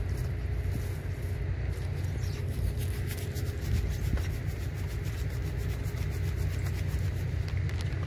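Steady low rumble, as of a running vehicle, with a faint steady hum, and a rapid run of small crackles or rustles from about two seconds in until near the end.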